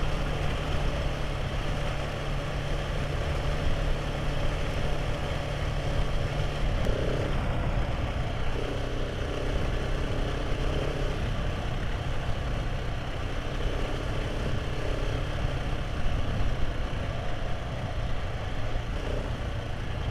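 Motorcycle engine running steadily while riding, with constant wind and road noise over it; the engine note steps lower about seven seconds in.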